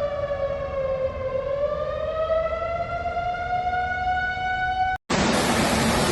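Siren sounding one long held tone that dips slightly, then slowly rises in pitch. It is cut off sharply about five seconds in by a loud, steady rush of water.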